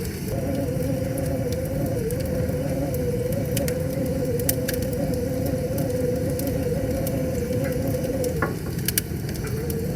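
Wood fire crackling, with scattered sharp pops, over the steady rush of a river. A steady humming tone runs underneath and drops out for about a second and a half near the end.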